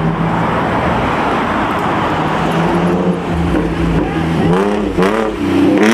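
Car engine running loudly, then revving with its pitch rising and falling through the second half, over a steady roar of traffic.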